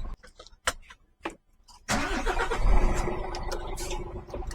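A few faint clicks, then about two seconds in a lorry's diesel engine fires up suddenly, its pitch rising briefly before it settles into a steady run.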